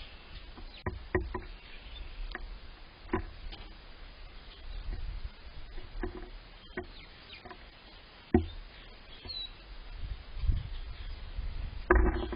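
Faint songbird chirps over a low rumble of wind on the microphone, broken by several sharp knocks or taps, the loudest about eight seconds in and again near the end.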